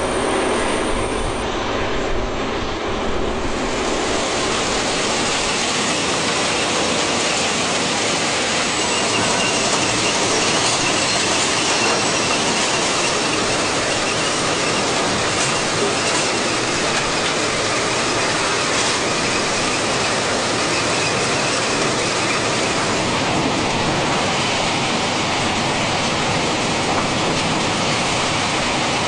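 Railroad cars rolling along the track with a steady, dense rumble of wheels on rail. A faint high wheel squeal runs through the middle stretch, with an occasional click of the wheels over the rail joints.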